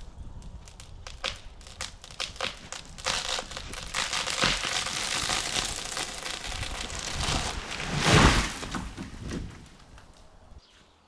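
A felled tree going over: a run of sharp cracks as the hinge wood splits, building into a long crackling, tearing rush of breaking branches. The loudest crash comes about eight seconds in as it hits the ground, then the sound dies away.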